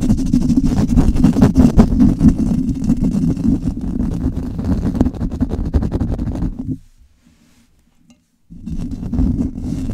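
Fingers scratching fast and hard directly on a microphone, a dense, rumbling scratching. About two-thirds of the way through it stops for under two seconds, then starts again.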